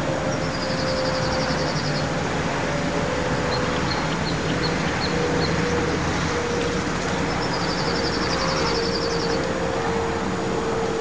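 Small birds calling: two rapid high trills, each lasting about two seconds, one at the start and one about seven seconds in, with a short run of about six high chirps in between. Under them runs a steady background hum and rush.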